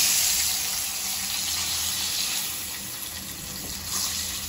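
Prawns sizzling in hot mustard oil in a kadai, a steady hiss that gradually quietens with the gas turned down to low.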